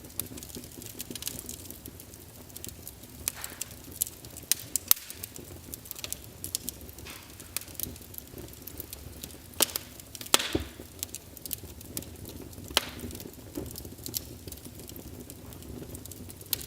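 Wood fire burning in a fireplace, crackling with irregular sharp pops over a soft steady hiss; a few louder pops stand out, around five and ten seconds in.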